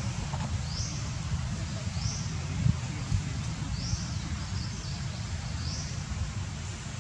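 A bird repeats a short high rising chirp every second or so over a steady low rumble.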